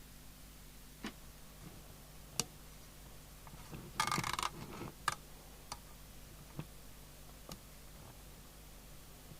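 Scattered sharp clicks of switches and handling on a radio workbench, one every second or so, with a brief half-second rustle or hiss about four seconds in, over a faint steady low hum.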